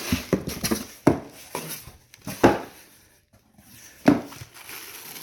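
Cardboard box being opened and handled, with rustling and a few sharp knocks, about one every second and a half.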